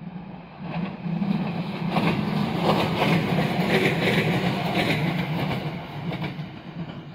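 JR West 227 series 'Red Wing' electric multiple unit passing close by: the rumble of its wheels on the rails swells about a second in, with clacks from the wheels running over rail joints, and dies away near the end.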